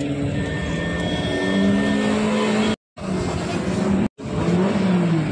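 Car engines revving, their pitch rising and falling. The sound cuts out completely twice for a split second.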